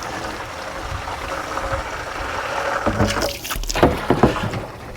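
Water from a hose running into a plastic jug, a steady rushing fill. A few knocks and bumps come from the jug being handled about three to four seconds in.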